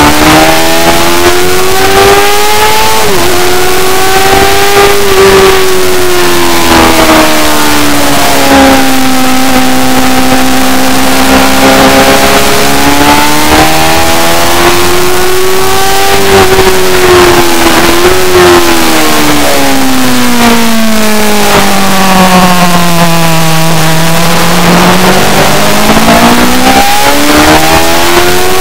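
A racing superbike's engine at high revs, its pitch climbing and falling as it works through the gears, with quick dips at the gear changes. The note sinks to its lowest about two-thirds of the way through as the bike slows, then climbs again. A steady rush of wind noise runs underneath.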